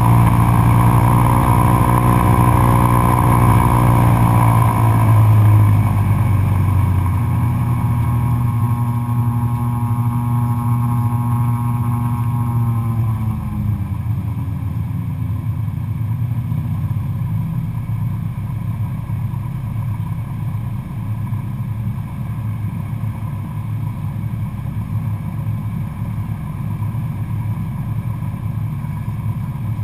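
Cessna 172SP's four-cylinder Lycoming engine and propeller running in flight, with power pulled back in two steps: the pitch and loudness drop about five seconds in and again about twelve seconds in, then hold steady at the lower setting.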